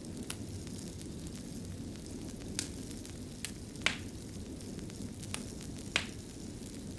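Wood fire burning in a fireplace: a steady low rumble with sharp crackles and pops at irregular intervals, the loudest pops a little before four seconds and at about six seconds.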